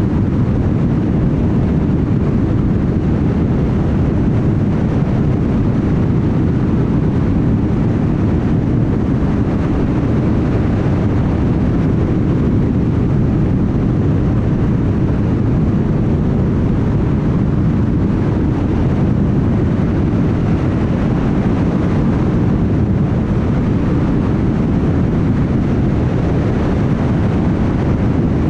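Car travelling at highway speed: a steady low rumble of tyre and wind noise.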